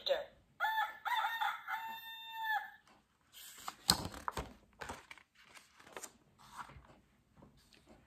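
A recorded rooster crowing cock-a-doodle-doo, played from the sound-button panel of a children's animal sound book; the crow lasts about two seconds and drops in pitch at its end. It is followed by a paper page of the book being turned, a few seconds of rustling and soft knocks.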